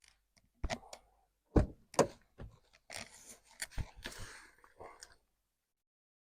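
A few dull knocks and thumps with rustling between them, the sound of things being handled and moved in a small space; it cuts off abruptly about five seconds in.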